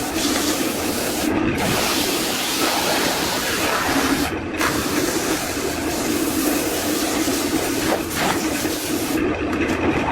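Woodworking power tool running steadily, a loud hissing whir with a low hum under it; the hiss dips briefly twice and eases near the end.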